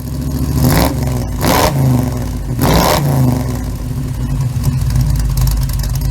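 An engine revving, its pitch rising and falling several times, then running on steadily.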